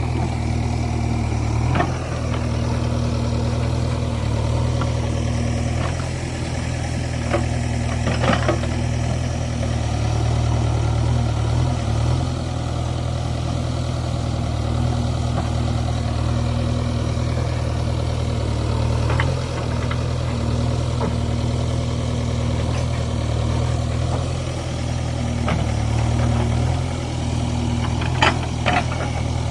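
Heavy vehicle engine running steadily at idle, a low even hum, with a few brief knocks.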